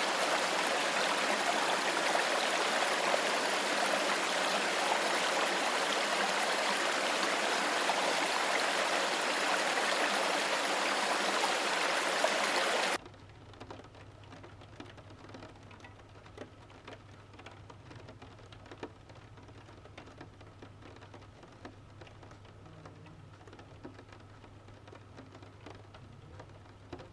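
Steady rushing water noise that cuts off suddenly about halfway through, leaving only a faint low hum.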